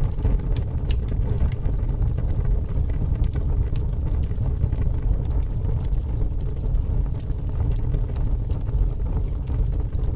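A fire burning: a steady low roar of flames with scattered small crackles and pops.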